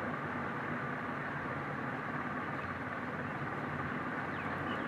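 Steady background hum with no distinct knocks or taps.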